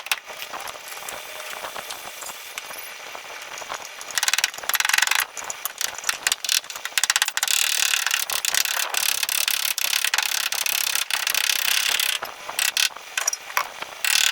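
Rapid scraping and clicking of tool work on a car body panel, louder from about four seconds in.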